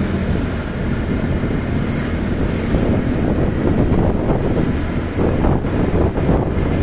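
Motorcycle riding along at speed, its engine running under heavy wind noise on the microphone.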